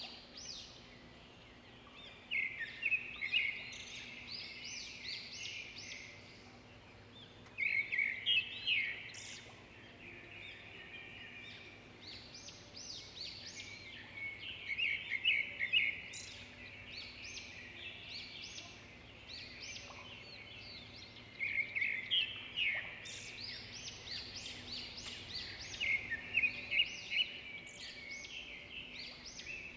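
Small songbirds chirping and trilling in bursts of a few seconds, several times over, with a faint steady hum beneath.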